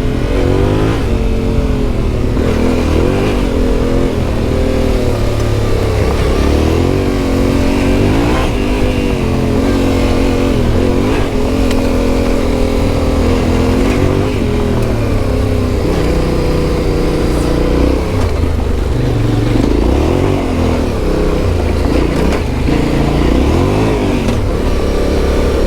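Yamaha Ténéré 700's CP2 parallel-twin engine through an Akrapovic exhaust, revving up and down again and again as the bike is ridden off-road.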